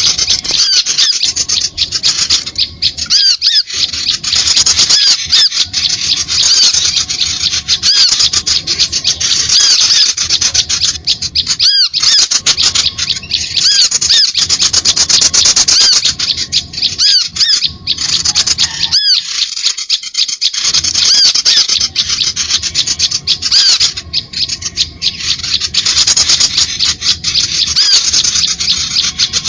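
Bird-lure recording of many birds: a loud, unbroken stream of harsh, rapid chirps and squawks, dipping briefly a few times.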